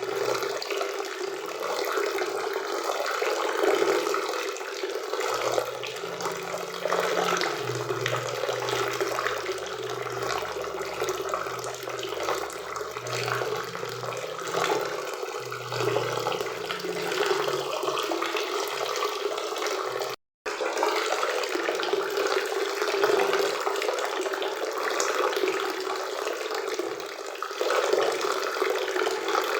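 Waterfall and river water rushing steadily, cutting out completely for a split second about two-thirds of the way through.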